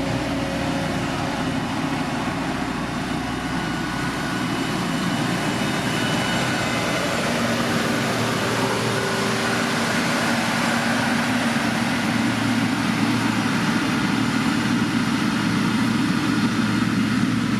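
Diesel engine of heavy road-building machinery running steadily, getting slightly louder in the second half.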